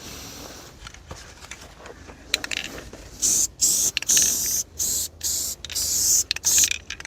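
Aerosol spray-paint can spraying in several short hissing bursts, starting about three seconds in, after a few light clicks and scrapes.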